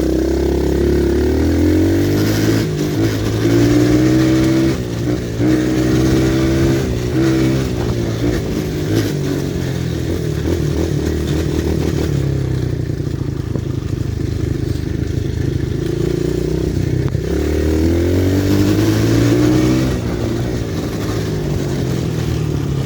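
Pit bike's small single-cylinder engine revving up under way, its pitch climbing several times in quick succession with short breaks between, holding steadier for a while, then climbing again near the end.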